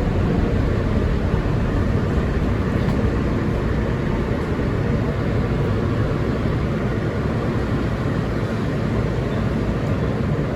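Steady, even rumbling noise inside an R160B subway car, heaviest in the low end, with no distinct knocks or tones.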